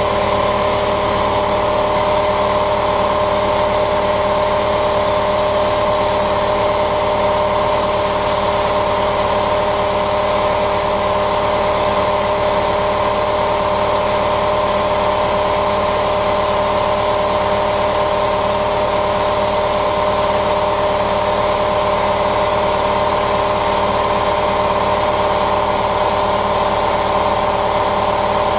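Spray-painting equipment running steadily: an even motor hum with a few fixed tones under a constant airy hiss.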